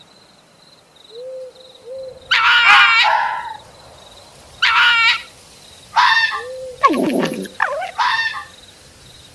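Fox calling: about five loud, harsh, high-pitched screaming barks, spaced a second or two apart, with a few soft whines between them. A faint steady insect-like trill runs underneath.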